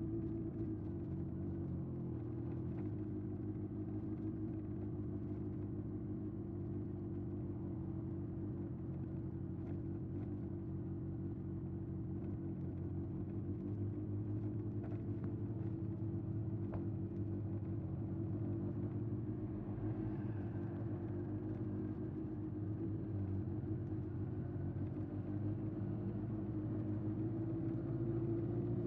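Exhaust note of a 1981 Honda CB750F's air-cooled inline-four through a vintage Yoshimura muffler, running at steady revs while the bike rides along.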